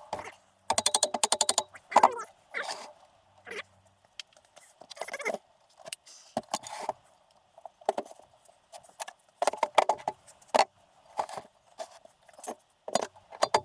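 Metal hand tools and engine parts clinking and knocking during engine disassembly, with a quick run of about ten clicks about a second in and irregular taps after.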